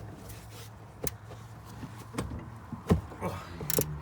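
Ratchet wrench loosening a 14 mm top strut-mount nut: scattered metal clicks and knocks, the loudest about three seconds in, with a quick run of ratchet clicks near the end, over a steady low hum.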